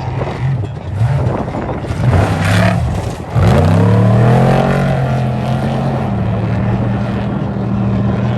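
A vehicle engine revving: it rises in pitch sharply about three seconds in, then holds a steady high note.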